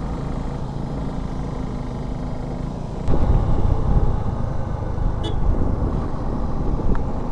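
Motorcycle engine running with road and wind noise on the microphone, getting louder and rougher about three seconds in.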